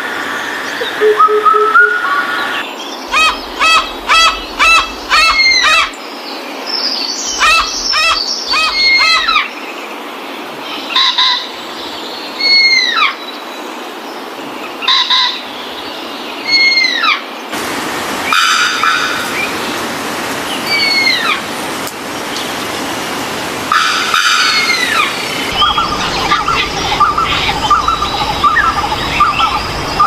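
Birds calling: quick clusters of high chirps, then clear whistled notes that slide down in pitch, one every second or two, with other birds calling behind them.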